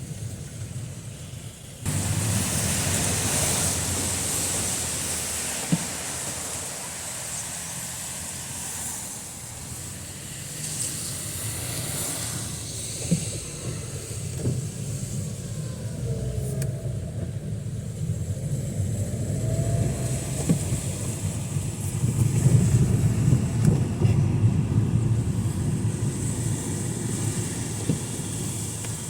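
Cars driving past on a rain-soaked street in heavy rain, tyres hissing over the wet road under a low engine rumble. The sound steps up sharply about two seconds in and swells again later on.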